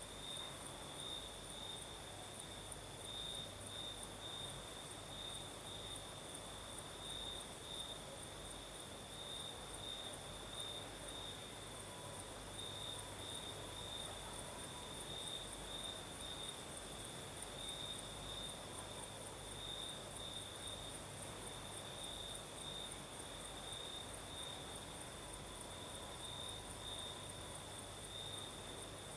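Crickets singing in a steady, fast-pulsing chorus, with a second, higher-pitched insect trill above it. A very high insect hiss comes and goes through the middle, and a faint night breeze hisses underneath.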